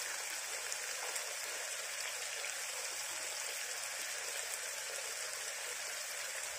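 Ground onion-garlic masala paste sizzling in oil in a kadhai: a steady, even hiss as the paste fries.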